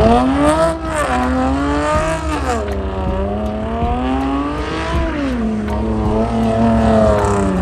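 A car engine revving hard and held at high revs, its pitch climbing, dropping and climbing again several times.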